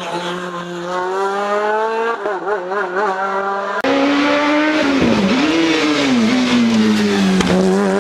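Race car engines on a hill climb course: one engine's pitch climbs under acceleration and then wavers. About four seconds in the sound cuts abruptly to a second engine whose pitch dips sharply, recovers and then falls away.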